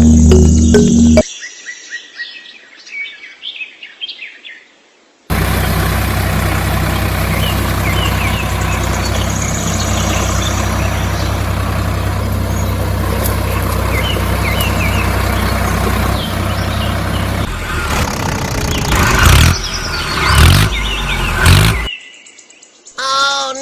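A steady engine-like motor hum runs for about twelve seconds while birds chirp, followed by several louder knocks. Music is heard briefly at the very start.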